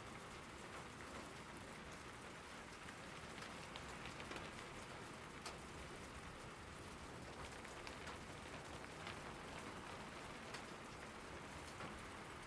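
Steady rain falling, an even hiss with scattered individual drops ticking out above it.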